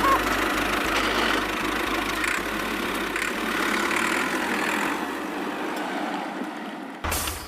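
A small motor or engine running steadily, with a low hum and a noisy whir, until it cuts off abruptly about seven seconds in.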